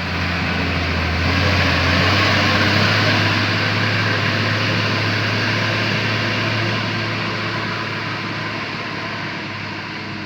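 A vehicle engine running, a steady low hum under a broad rush that grows louder over the first two seconds, then slowly fades.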